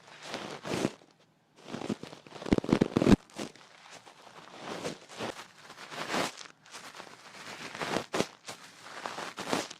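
Close-miked ear-cleaning ASMR sounds: irregular scratching and rustling strokes against the microphone, with a louder crackling cluster about two and a half to three seconds in.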